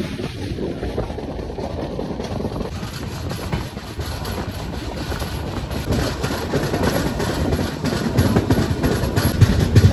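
Indian passenger train running at speed, heard from outside the coach side: steady wheel and rail noise with wind buffeting the microphone, crossing a steel truss bridge for the first few seconds and then on open track. Rail clicks come through in the second half and grow louder toward the end.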